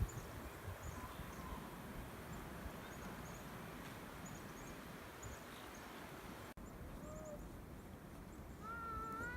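Low, steady rush of wind in a snowstorm, with a short, high, rising vocal sound from a small child near the end.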